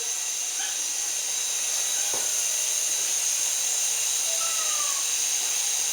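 Syma S107 micro RC helicopter hovering: its small electric motors and coaxial rotors whir in a steady high-pitched whine.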